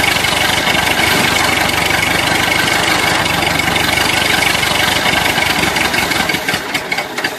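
Tractor engine running steadily with a rapid, even chugging, growing uneven near the end.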